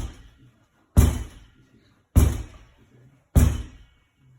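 A ball thrown against a wall in quick, even repetitions: three hard thuds about 1.2 seconds apart, each ringing briefly.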